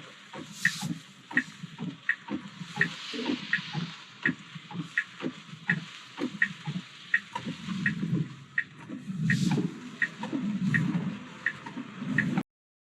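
A car's turn-signal indicator ticking steadily, about 1.4 clicks a second, over the rushing noise of rain and tyres on a wet road. It stops when the sound cuts off near the end.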